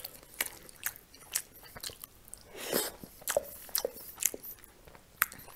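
A man chewing soft food, bread and mashed potato with gravy, close to the microphone: a string of short wet mouth clicks and lip smacks.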